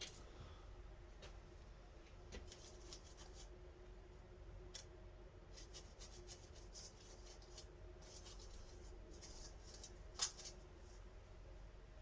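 Faint hand work on a small carburetor part: quiet, intermittent rubbing and scratching over a low steady hum, with one sharp click about ten seconds in.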